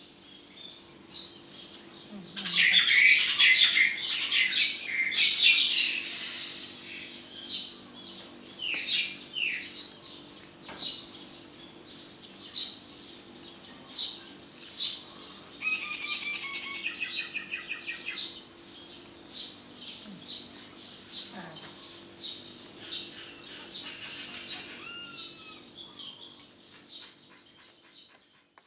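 A bird chirping over and over, about once a second, with a loud flurry of rapid chirps and squawks from about two to six seconds in. A faint steady low hum runs underneath.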